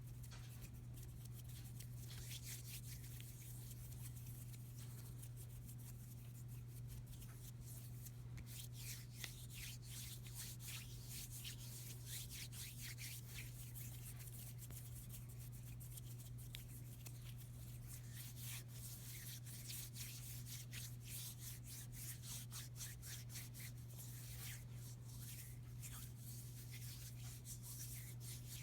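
Hands rubbing together close to the microphone: soft, irregular skin-on-skin rubbing with fine crackles. A steady low hum runs underneath.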